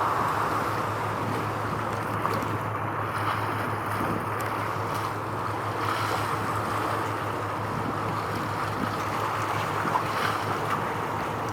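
Steady waterside ambience: wind buffeting the microphone over the wash of waves, with a constant low hum underneath.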